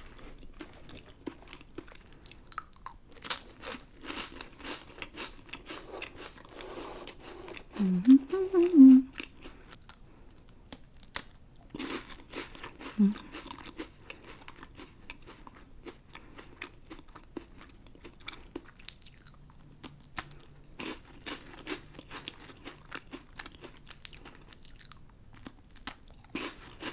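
Crisp wafer cookie sticks being bitten and chewed close to the microphone, a steady run of crunches. A brief sound of the eater's voice comes about eight seconds in.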